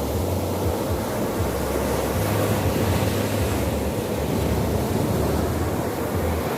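Strong wind buffeting the microphone in uneven gusts over a steady rush of sea and surf.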